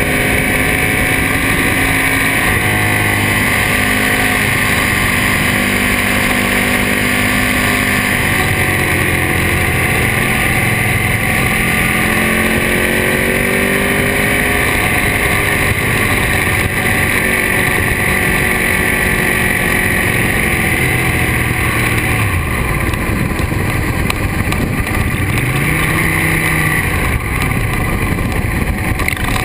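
Ducati Monster S4RS's 998 cc Testastretta L-twin with Termignoni exhausts, running under way. Its pitch holds steady, then falls and rises again a few times as the bike slows for bends and pulls away. Heavy wind rush on the microphone runs underneath.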